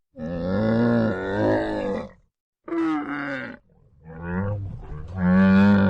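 An animal calling four times: one long call of about two seconds, then three shorter calls, the last of them the loudest.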